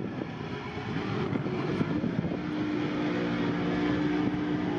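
A car engine running, its pitch rising about two seconds in and then held steady.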